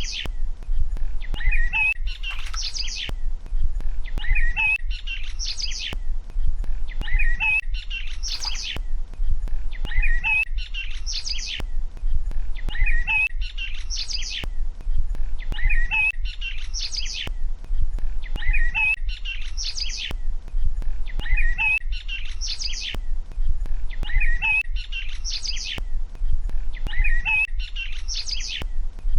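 Small birds chirping, the same short phrase repeating identically about every three seconds like a looped ambience track, over a steady low hum.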